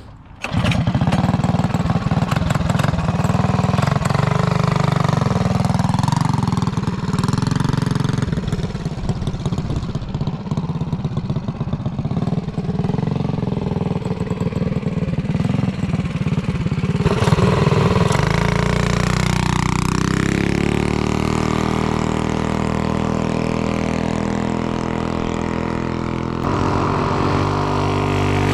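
Mini bike's small single-cylinder four-stroke engine running under throttle. It comes in abruptly, wavers up and down in pitch, then settles to a steady note for roughly the last ten seconds.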